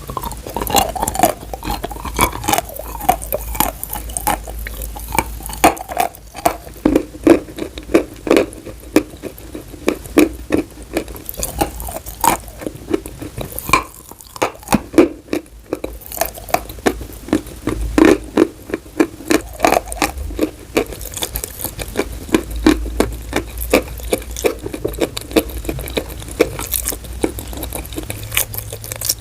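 Chalk being bitten and chewed close to the microphone: a fast, uneven run of sharp crunches with a brief pause about halfway through.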